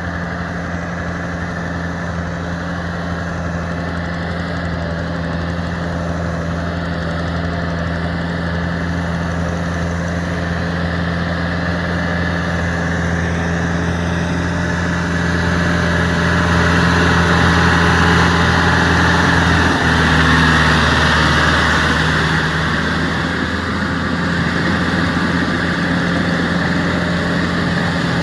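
Yanmar EF725T tractor's diesel engine running steadily, getting louder for several seconds past the middle before easing back a little.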